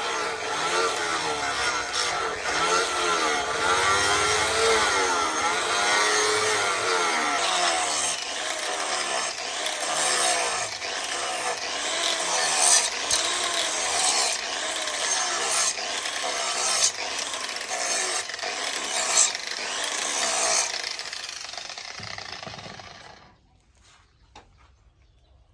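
Abrasive rubbing and rasping, a hand tool or abrasive worked against material in repeated strokes. It fades and stops about 23 seconds in.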